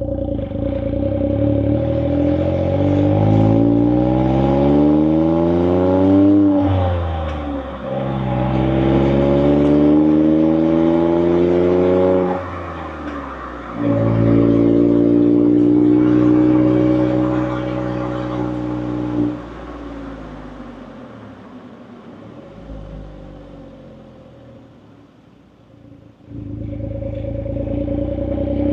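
Suzuki Jimny JB64's 660 cc turbocharged three-cylinder engine through an HKS Legal aftermarket muffler, heard from outside the car with some distortion. Revs climb and drop at a gear change about six seconds in, climb again, and hold steady for a while. Then they fall away as the car slows, and near the end the engine settles to a steady note.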